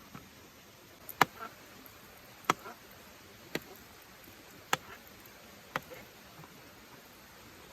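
Five sharp knocks, about one a second, the first the loudest, some followed by a softer second tap.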